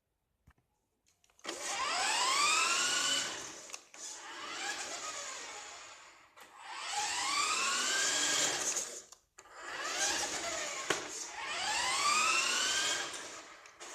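Electric motor and gearbox of a vintage RC monster truck whining as it is given throttle about four times, the pitch rising at the start of each burst and dropping between them.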